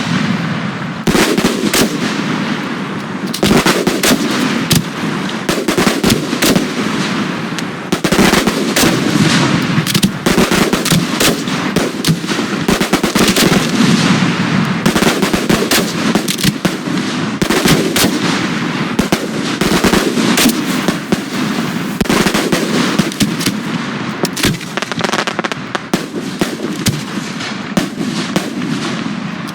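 Fireworks display: aerial shells and cakes firing and bursting in a dense, continuous barrage, many sharp bangs following each other in quick succession and often overlapping.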